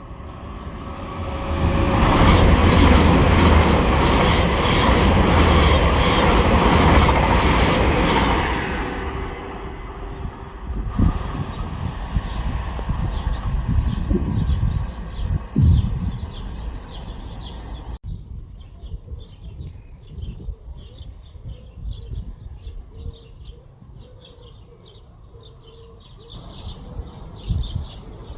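A train passing on the railway line, its rumble building about two seconds in, staying loud for several seconds, then fading away with a few heavier knocks. After an abrupt change it is quieter, with birds chirping.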